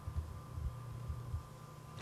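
Faint room tone: an uneven low rumble with a thin, steady electrical hum.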